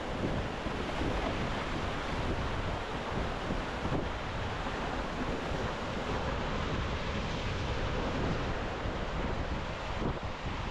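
Wind buffeting the microphone over the steady wash of waves breaking on a shore, with uneven low gusts throughout.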